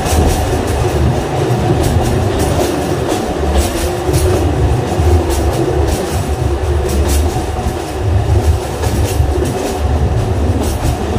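Alishan Forest Railway narrow-gauge train running through a tunnel, heard from inside the carriage: a loud, steady low rumble with irregular sharp clacks from the wheels on the rails.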